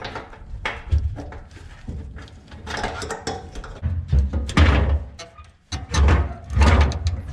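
Irregular clunks, knocks and scraping of hands and hand tools at work, with several heavy, deep thumps in the second half.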